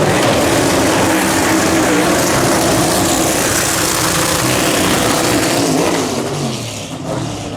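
Twin-turbo V8 dragster engine running hard at high throttle, loud and sustained with a dense hiss over the engine note, easing off near the end.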